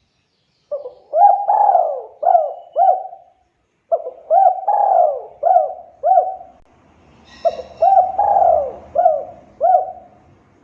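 Spotted dove (tekukur) cooing: three repeated phrases of about five coo notes each, roughly three seconds apart. A brief higher chirp falls at the start of the third phrase.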